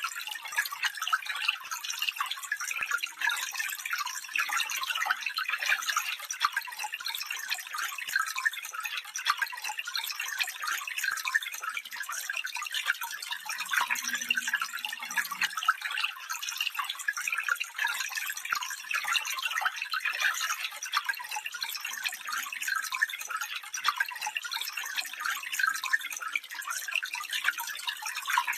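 Stream water running over stones: a steady bright babble and trickle with no deep rush.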